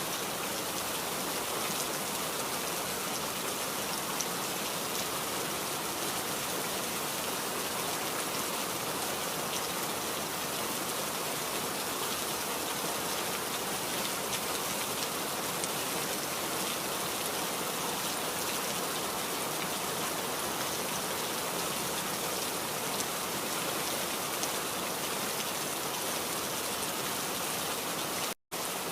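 Steady rain falling, an even dense hiss flecked with the ticks of individual drops. It cuts out completely for an instant near the end.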